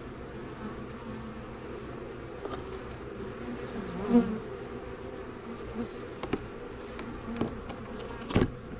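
Honey bees buzzing steadily in a swarm, with a few light knocks, the sharpest near the end.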